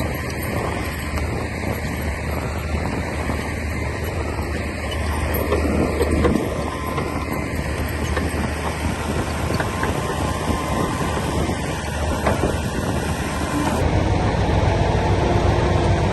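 Komatsu D60P bulldozer's diesel engine running steadily, slightly louder over the last couple of seconds.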